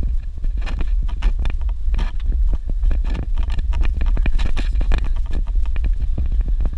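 A vehicle rolling over a rough dirt road: a steady low rumble with many quick rattles and knocks from the bumps.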